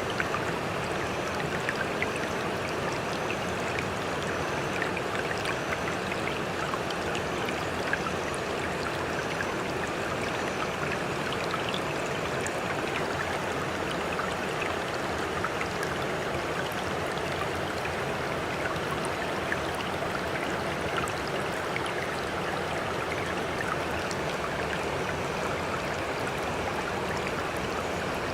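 Sea water lapping and splashing in a steady, even wash, dotted with many small droplet ticks and without the rise and fall of breaking waves.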